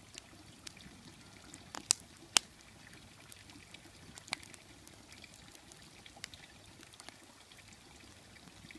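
Wood fire burning in a fire bowl, crackling: a soft hiss with irregular sharp pops, the two loudest about two seconds in.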